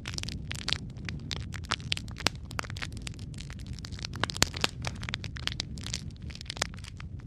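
Wood fire in a fireplace crackling steadily: dense, irregular pops and snaps over a low rumble of burning, with one sharper, louder pop a little past the middle.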